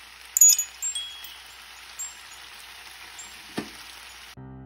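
Stir-fry sizzling in a frying pan, a steady hiss, with a few clicks and knocks of a wooden spatula. A loud, bright chime-like clink rings about half a second in. Piano music starts just before the end.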